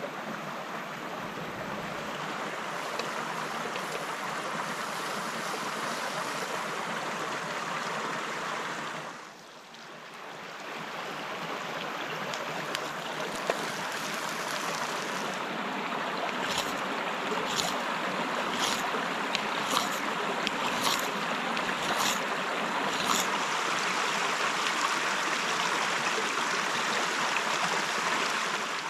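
Steady rushing noise of water in a rainforest. Past the middle comes a run of about seven sharp knocks, roughly one a second.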